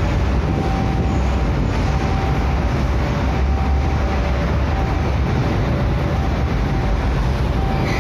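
Freight train of container flatcars rolling slowly over a road level crossing with a steady low rumble. The crossing's warning alarm sounds over it in short tones that alternate between two pitches, about one a second.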